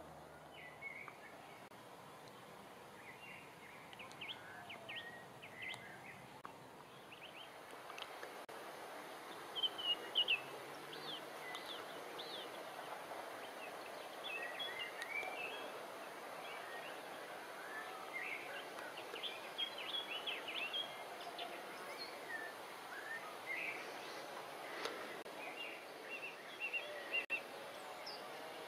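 Small birds chirping and singing in short, scattered calls, over a faint steady outdoor hiss.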